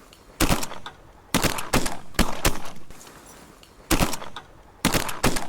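Several hunters' shotguns firing a volley at ducks: a dozen or so shots in quick clusters, some overlapping.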